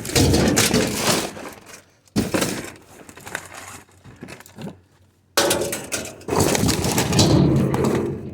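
Mixed junk in an open-top dumpster crunching and clinking as it is trodden on and shifted. It drops away about two seconds in and again around four seconds in, then starts back up suddenly about five seconds in.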